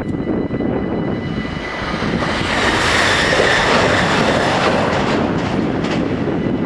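NS Sprinter electric passenger train passing at speed over a level crossing. Its wheel and running noise swells to a peak in the middle and fades, with a few sharp clicks of the wheels over the rails near the end.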